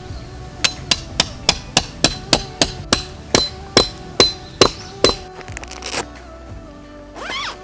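A metal hammer driving a tent peg: about fourteen quick, ringing blows at roughly three a second, which stop about five seconds in. Background music plays underneath.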